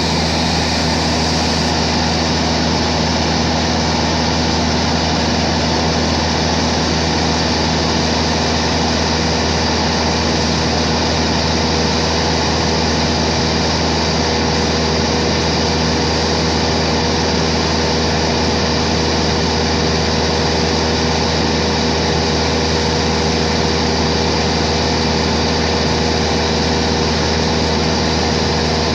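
Steady, loud drone of an aircraft's engine, a low hum with a few steady tones above it and no change in pitch.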